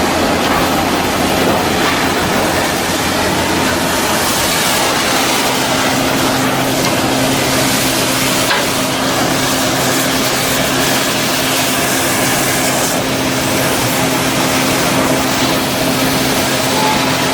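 Continuous loud machine noise: a steady hiss over a held low hum, without a break.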